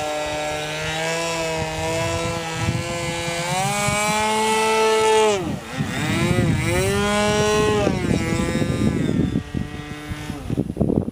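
Two-stroke .46 glow engine of an RC airplane swinging a 12x4 propeller, running hard with its pitch rising and falling as the throttle is worked. It dips sharply about five and a half seconds in, climbs back, then eases to a lower note near the end, with wind rumbling on the microphone.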